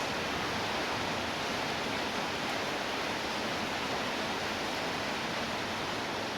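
Steady rainfall: an even wash of falling rain without breaks.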